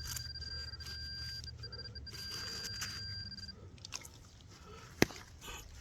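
Digging in wet soil with crunches and scrapes, under a steady electronic tone from a metal-detecting pinpointer that sounds over a target in the hole and stops about three and a half seconds in. A single sharp tap comes about five seconds in.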